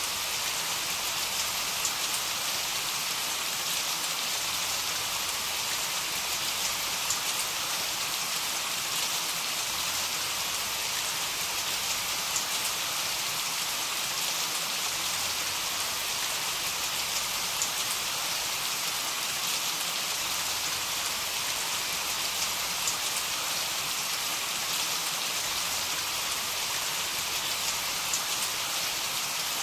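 Heavy rain falling steadily, a dense even hiss with scattered sharp ticks of individual drops.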